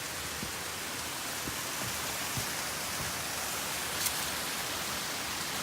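Steady rushing of a mountain stream, an even hiss with a single sharp click about four seconds in.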